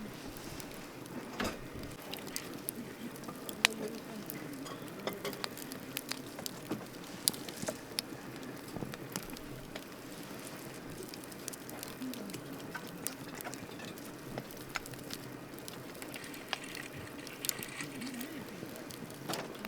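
Wood campfire burning, with irregular crackles and sharp pops over a steady rush of flames.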